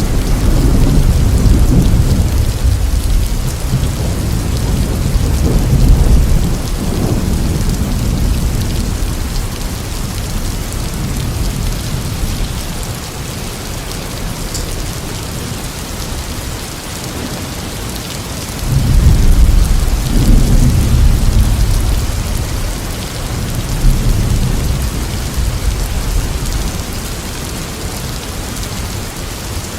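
Steady rain with rolling thunder: one long rumble through the first several seconds, and a second that breaks in suddenly about two-thirds of the way through and rolls on for several seconds before fading.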